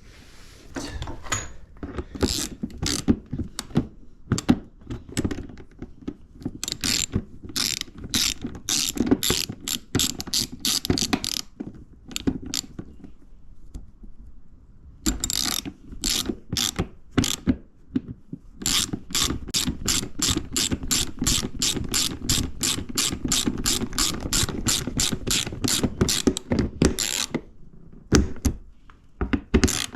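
Hand ratchet wrench clicking in quick runs, about four clicks a second, as a bolt is turned on the dirt bike, with a pause of a few seconds in the middle.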